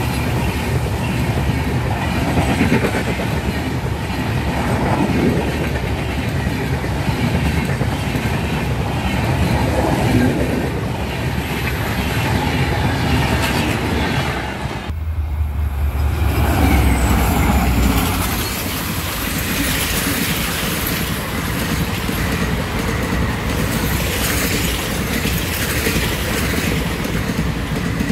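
Passenger train coaches passing close by at speed: the steady rumble and clatter of wheels running over the rails. About halfway through the sound breaks off briefly and a second passing train takes over, heavier in the low rumble for a few seconds.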